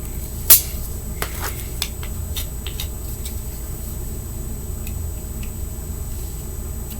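A fingernail scraping leftover grip-tape adhesive off a fingerboard deck: one sharp click about half a second in, then a scatter of faint clicks and light scratches, over a steady low hum.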